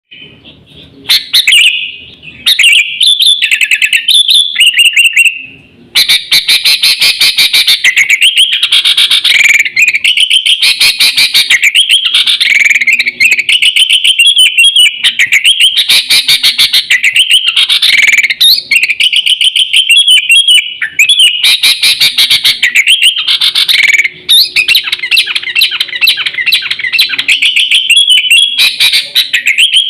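Sooty-headed bulbul (kutilang) song: loud, rapid chattering and whistled phrases, broken at first and almost unbroken from about six seconds in. It is a lure call for attracting and tutoring bulbuls.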